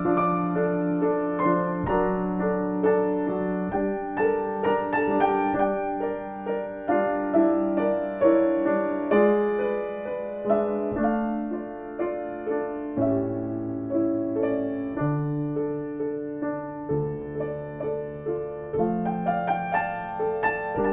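Piano playing a slow, quiet piece, with notes struck about once or twice a second over held bass notes.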